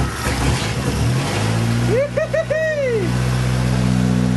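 Freshly built engine running on its first startup, uneven for about the first second and a half, then settling into a steady idle. A few short whoops come over the engine about two seconds in.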